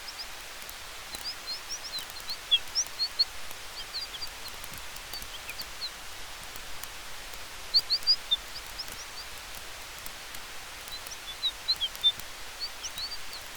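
Campfire and forest ambience: a steady hiss with faint crackling ticks, broken by three flurries of short, high bird chirps.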